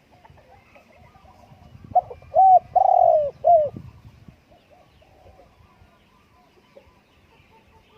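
Spotted dove cooing one phrase of four notes about two seconds in, the third note the longest and loudest. Fainter calls of other birds sound in the background.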